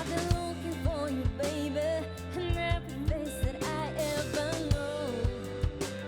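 Live band music: a drum kit keeps a steady beat under a sliding, wavering melodic lead line.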